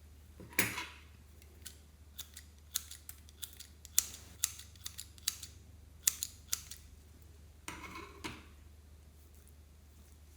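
Slime being squeezed and poked by hand, giving a quick string of crisp clicks and pops, with a longer crackle about half a second in and another near the end.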